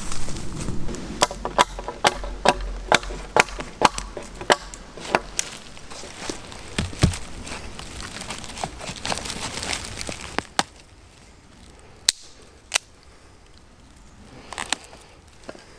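Wood being struck with a tool during camp building: a run of sharp knocks about two a second for the first few seconds, then slower, scattered knocks.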